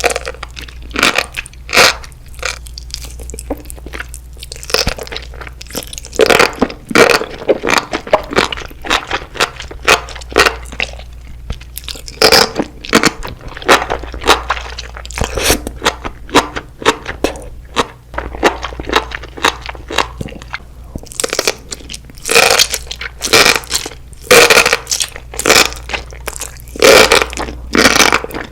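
Close-miked eating: crisp crunching bites and chewing, many sharp crackles in quick runs with short pauses, over a faint low hum.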